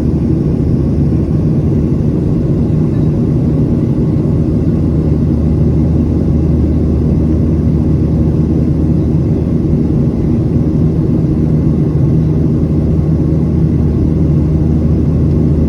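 Boeing 737-800 jet engines running with a steady low rumble and hum, unchanging throughout.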